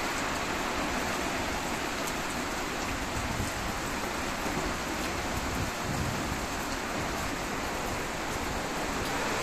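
Typhoon wind and rain, a steady even rush.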